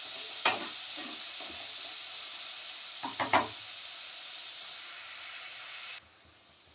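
Chopped onions frying in hot oil in an aluminium kadhai, a steady sizzle, with a few clicks of a wooden spatula against the pan about half a second in and around three seconds in. The sizzle cuts off abruptly about six seconds in.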